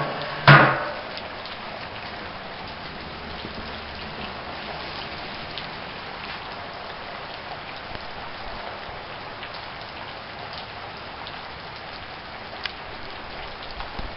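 Steady heavy rain falling and splashing, an even hiss throughout. A brief loud sound about half a second in and a faint click near the end.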